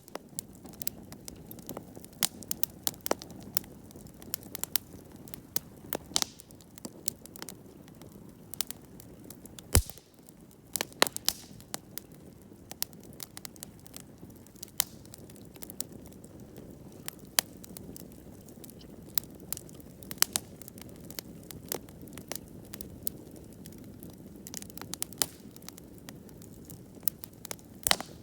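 Wood campfire burning, with irregular sharp crackles and pops over a low steady hiss of the flames; one louder pop about ten seconds in.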